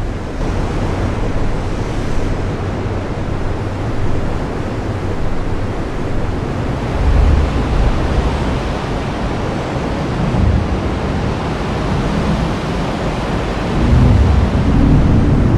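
Heavy rain falling steadily in a dense hiss, with low rumbles of thunder swelling about halfway through and again near the end, the last one the loudest.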